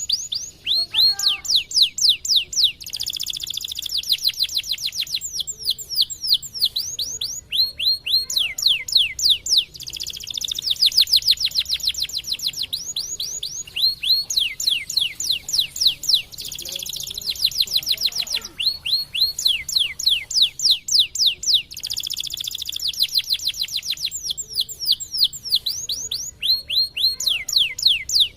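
White domestic canary singing a long song of fast trills: rapid runs of repeated sweeping high notes, phrase after phrase with short pauses between them.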